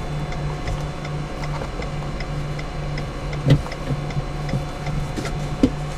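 A car's turn-signal or hazard flasher ticking evenly, about three ticks a second, over a steady low hum inside the car's cabin. Two short knocks stand out, the louder about halfway through.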